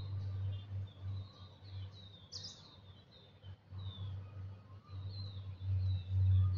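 Birds chirping: short downward-sliding chirps about twice a second, with one sharper, higher call about two and a half seconds in. A low rumble swells and fades underneath and is loudest near the end.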